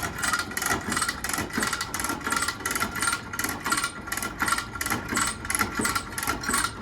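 Hand come-along's ratchet clicking steadily, about four metallic clicks a second, as it is worked to let out or take up cable.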